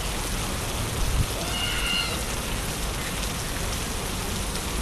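Steady rain falling on a city street, an even hiss of drops on wet surfaces. A brief faint pitched call, like a distant voice, cuts through about two seconds in.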